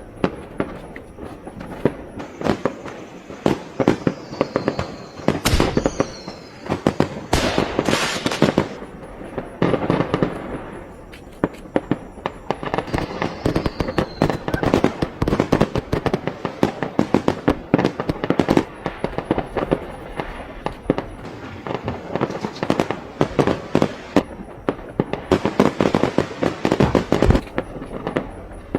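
Fireworks going off in a dense, continuous barrage of cracks and bangs, with a couple of short falling whistles.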